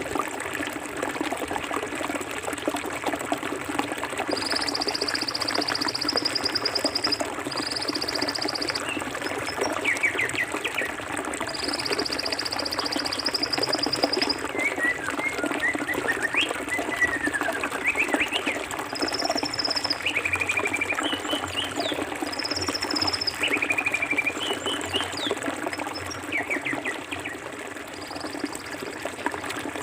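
Forest river water flowing steadily over rocks, with birds calling over it: several high trills lasting two to three seconds each, and shorter chirps.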